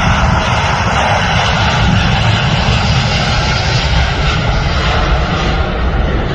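Boeing 777X's GE9X turbofan engines during takeoff: a loud, steady jet noise with a heavy low rumble.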